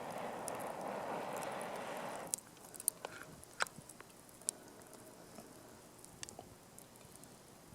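A steady rushing hiss for about two seconds that cuts off abruptly, then a wood campfire crackling, with a handful of sharp pops at irregular intervals.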